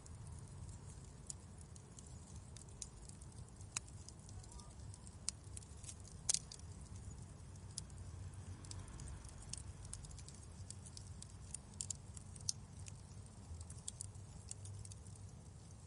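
Wood fire crackling in a fireplace: scattered sharp pops and snaps, the loudest about six seconds in, over a low steady rumble.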